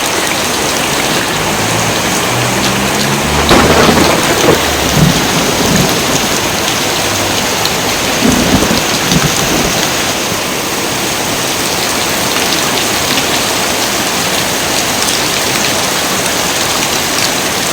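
Heavy rain pouring steadily, with thunder rumbling from about two seconds in and two louder peaks, around four seconds and again around eight and a half.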